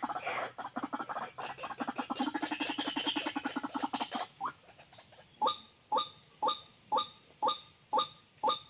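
White-breasted waterhen calls: a fast, stuttering croaking run for about four seconds, then after a short pause a regular series of sharp rising notes, about two a second.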